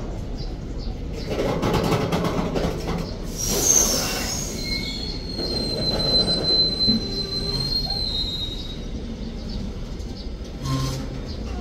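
A container freight train's flat wagons rolling past close by: a steady rumble with the wheels clacking over rail joints. A high squeal runs for about four seconds in the middle.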